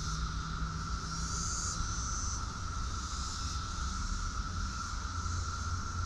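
Steady outdoor background drone: a constant high tone and faint hiss over a low hum, with no clucking.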